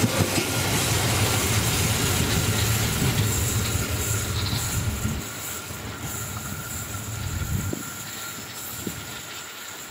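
A train passing along the track. Its low rumble drops off about five seconds in and fades out near the end as the train moves away.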